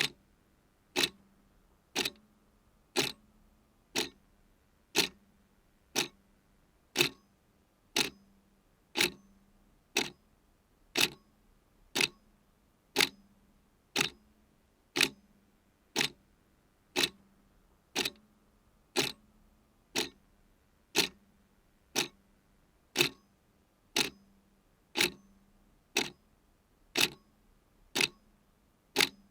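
Clock ticking steadily at about one tick a second, every other tick a little louder, in a tick-tock pattern.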